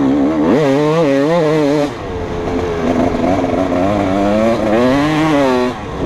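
2015 KTM 250 SX two-stroke motocross engine revving hard under throttle, its pitch climbing sharply and wavering high, then dropping off suddenly near two seconds. It builds again from about three seconds and falls away once more near the end, as the throttle is rolled off or a gear is changed.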